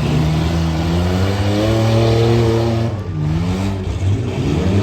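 Racing truck engine accelerating hard, its pitch climbing for about three seconds, dipping sharply, then climbing again.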